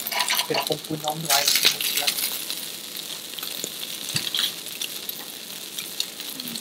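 A langoustine tail and pumpkin pieces sizzling in oil on a hot plancha, a steady hiss with scattered crackles and spits. It is strongest over the first couple of seconds, then settles.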